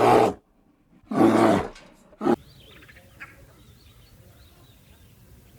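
A large animal giving loud, low, roaring calls: one as it opens, another about a second long shortly after, and a short one just past two seconds. Faint bird chirps follow in the background.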